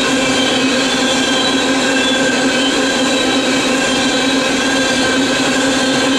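BNSF coal train rolling past at steady speed: continuous wheel-on-rail noise with steady ringing tones held over it.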